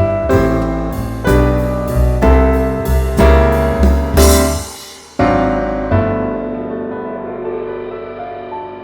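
Background piano music: a run of notes and chords, then a final chord about five seconds in that slowly dies away.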